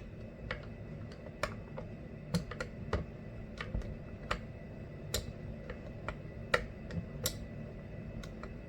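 Hammer tapping a drift pin against the oiler adjuster stop of a Stihl MS 462 chainsaw: irregular sharp metal taps, a few louder than the rest, as the stop is knocked down so the oiler can be turned fully up.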